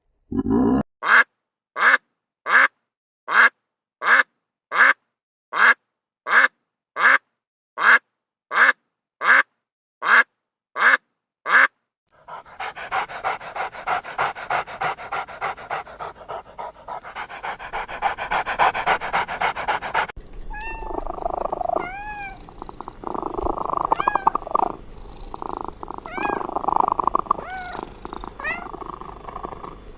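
Animal sounds: for about twelve seconds, short breaths or calls repeat evenly, about one and a half a second. Then a cat purrs steadily, with several short meows in the last ten seconds.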